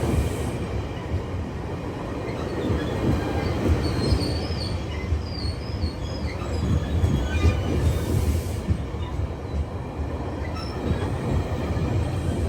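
GO Transit commuter train with its diesel locomotive running in a steady low rumble, with a few short high squeals from the wheels about four to six seconds in.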